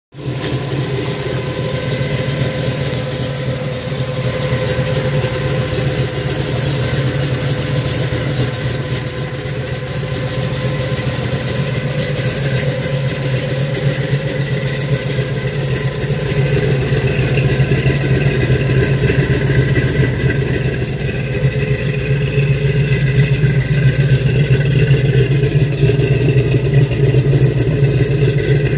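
1970 Ford Mustang Mach 1's V8 engine idling steadily through its dual exhaust, growing somewhat louder in the second half.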